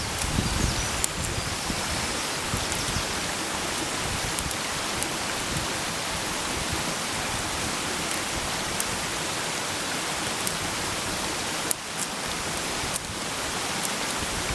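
Food sizzling in a pan over a campfire: a steady hiss with a few sharp pops and crackles.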